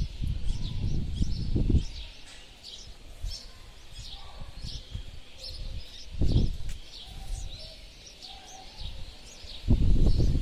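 Small birds chirping over and over, many short high chirps close together throughout. A loud low rumble comes in gusts at the start, briefly about six seconds in, and again near the end.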